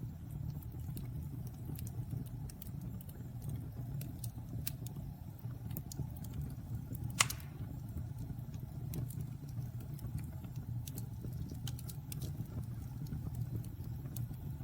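Wood fire burning in a fireplace: a steady low rumble of flames with scattered small crackles, and one louder, sharper pop about halfway through.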